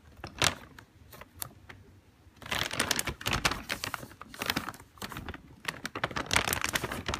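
Plastic packaging crinkling and crackling as it is handled, in bursts of quick clicks.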